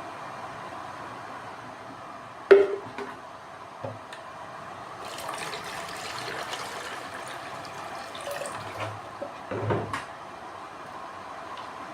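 Water being poured into a container of an HHO generator, a splashing pour from about five to nine seconds in. A sharp knock comes about two and a half seconds in, and a thump near the end.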